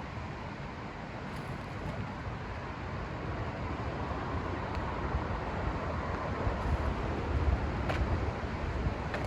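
Steady rushing outdoor noise with no distinct tones, its low rumble slowly building to a peak near the end, like a vehicle passing, with a couple of faint clicks.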